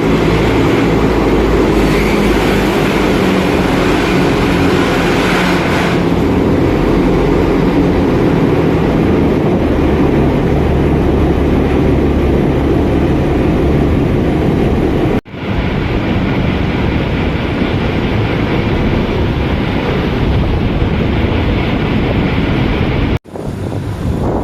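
Boat engine running steadily, with two abrupt breaks in the sound.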